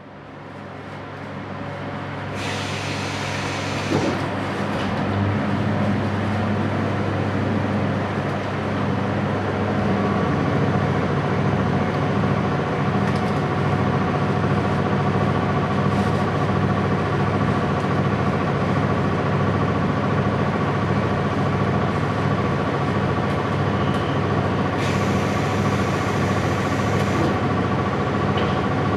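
Inside a Series 711 electric train car: steady hum of the onboard equipment, fading in over the first few seconds, with a hiss of compressed air about two seconds in and another, about two seconds long, near the end.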